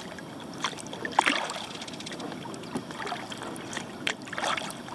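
Kayak paddle dipping and pulling through calm lake water, with drips off the blade and a couple of sharper splashes, about a second in and again near the end.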